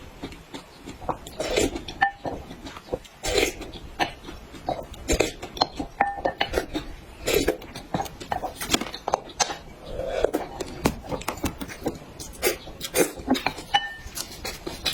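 Close-up eating sounds: wet chewing and lip smacks, with many irregular sharp clicks.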